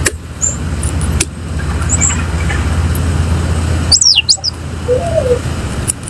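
A bird gives a sharp whistle about four seconds in that falls steeply in pitch, with a few short high chirps and a low gliding call shortly after. Sharp clicks come near the start, and a steady low hum runs underneath.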